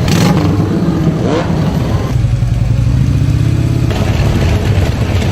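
Motorcycle engine running, with a short rise in pitch about a second in, then holding steady.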